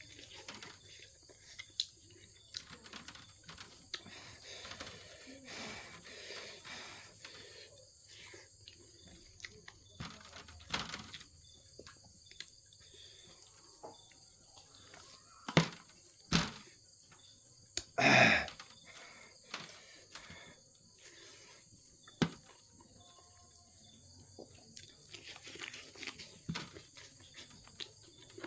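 Eating sounds: chewing and mouth noises with scattered sharp clicks, and one loud, half-second crunch or slurp about 18 seconds in. Under them is a steady, high insect chirring.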